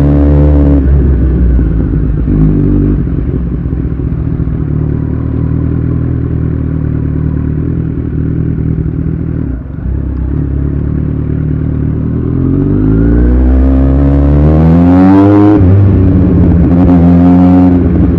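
Kawasaki Z1000's inline-four engine through an Austin Racing aftermarket exhaust, on the move. It runs at fairly steady revs, then about two-thirds of the way in it revs up in a rising pitch that drops sharply at a gear change, then settles again.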